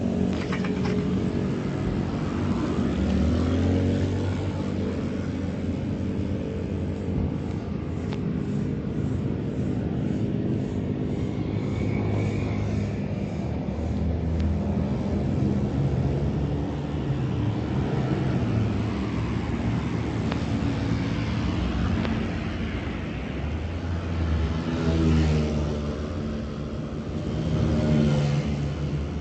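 Modified Honda Tiger single-cylinder motorcycle engine, bored up to 250cc and running on a PWL carburettor, idling and revved up a few times: about three seconds in, and twice near the end.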